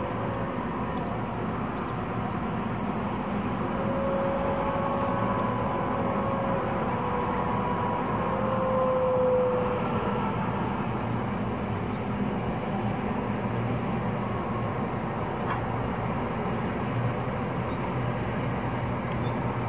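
Diesel locomotives and freight wagons running slowly across a long viaduct, heard from a distance as a steady low rumble of engines and wheels. Thin whining tones rise over the rumble for a few seconds around the middle.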